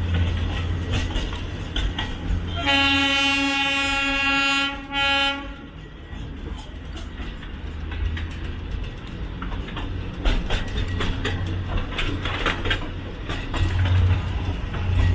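Darjeeling Himalayan Railway toy train running, with the narrow-gauge coach rattling and clicking over a low rumble. About three seconds in, the locomotive sounds its horn: one long blast of about two seconds, then a short one.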